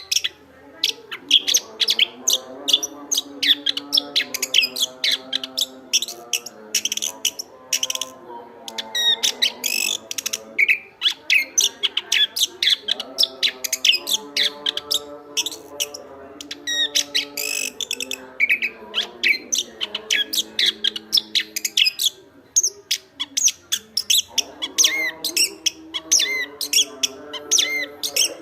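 Chestnut-capped thrush singing a continuous, rapid run of varied high chirping and whistled notes, pausing briefly about 8 seconds in and again a little past the middle.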